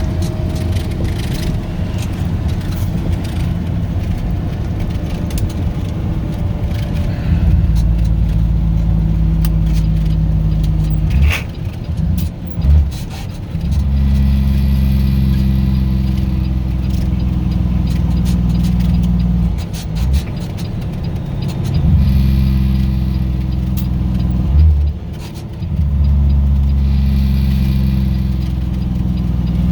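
A truck engine runs steadily under way in a low drone, briefly dipping and returning several times.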